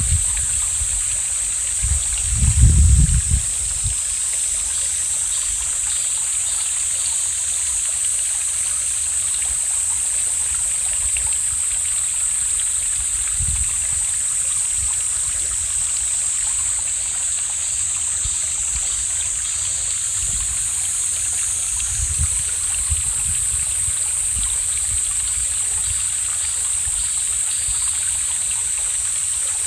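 Mountain valley stream flowing steadily, a continuous rushing hiss of water. A brief low rumble about two to three seconds in, with fainter ones later.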